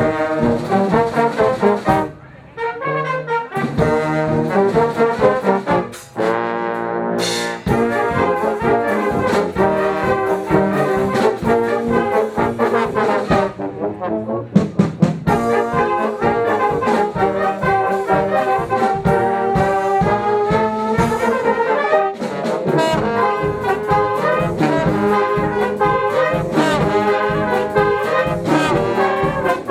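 Brass band playing live, trombones and trumpets carrying the tune over a steady drum beat, with a short break about two seconds in.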